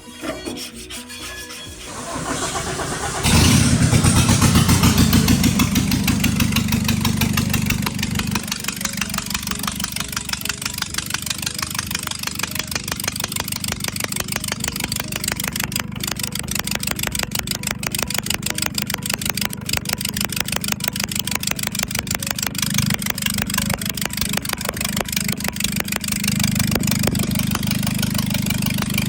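Nissan Navara D40 diesel engine cranked briefly and catching, running at a raised idle for about five seconds, then settling to a steady idle, with a slight lift in revs near the end. The engine is pushing oil out through its exhaust, the cause not yet confirmed.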